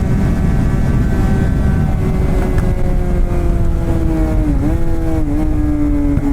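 Suzuki GSX-R600 K7 inline-four with a straight-piped M4 exhaust and no catalytic converter, running at a steady high rev under way. The pitch sinks slowly, with two brief dips in pitch about four and a half and five seconds in, over a heavy rush of wind noise.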